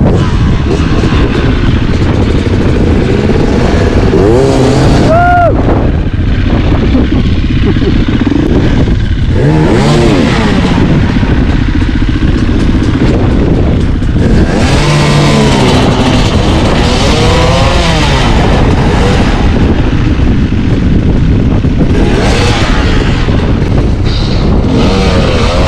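Off-road dirt bike engine ridden on a trail, its pitch rising and falling repeatedly as the throttle is opened and closed, over a heavy low rumble of noise.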